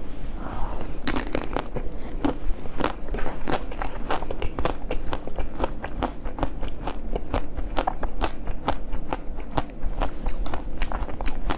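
Close-miked chewing of a red ball-shaped jelly sweet, with a fast run of crisp crackling clicks, about four a second.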